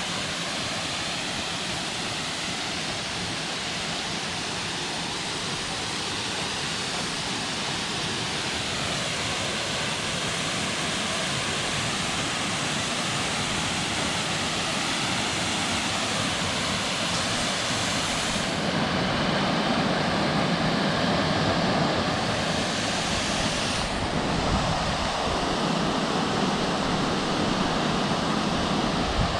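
Waterfall: a steady rush of falling water that grows louder past the middle.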